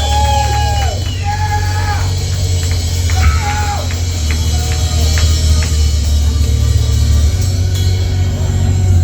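A live rock band playing a brooding intro, carried by a loud, sustained low bass drone.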